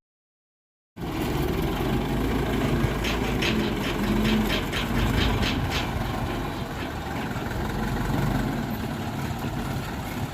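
Dump truck engine running steadily at idle, starting about a second in. A quick run of about eight light ticks, roughly four a second, sounds over it about three seconds in.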